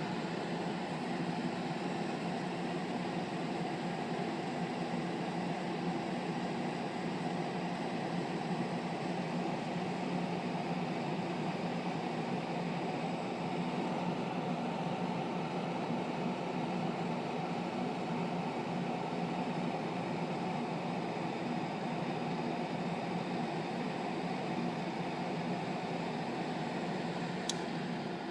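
GE window air conditioner running with a steady hum and fan noise; its compressor has a locked rotor. A single faint click near the end.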